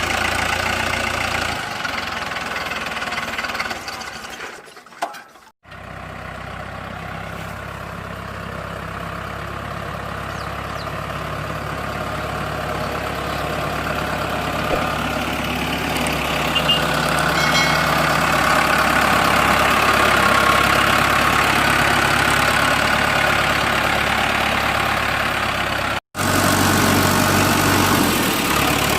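Mahindra Arjun 605 DI tractor's diesel engine running steadily. It cuts out briefly about five seconds in and again near the end, and after the first break it grows gradually louder.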